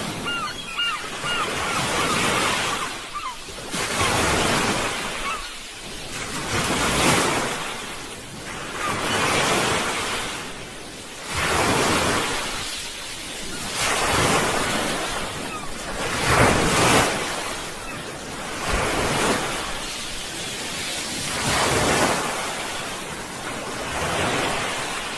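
Sea waves surging in and drawing back in repeated swells, one every two to three seconds.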